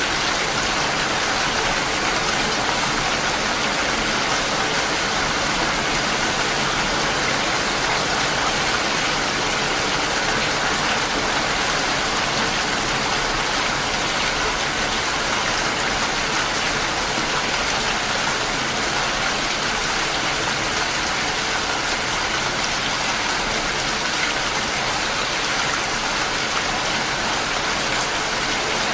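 Steady heavy rain, a dense even hiss of falling water that does not change.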